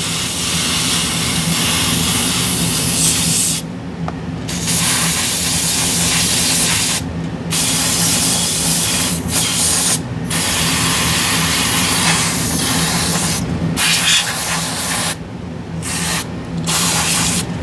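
Aerosol spray can spraying cleaner onto a graphics card part in long hissing bursts, with about six short pauses between them, to strip off stubborn residue. A steady low hum runs underneath.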